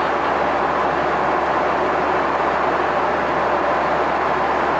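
Steady jet noise from a Boeing 737-800, engines and rushing air heard as a constant even roar inside the cabin in flight.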